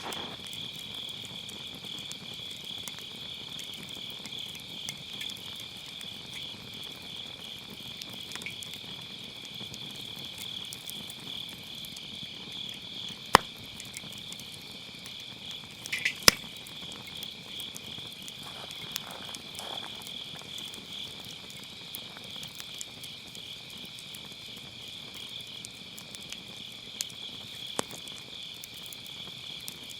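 Crickets chirping in a continuous pulsing high trill, over a burning wood fire that crackles with a few sharp pops, the two loudest about a third of the way in and a few seconds later, and smaller ones near the end.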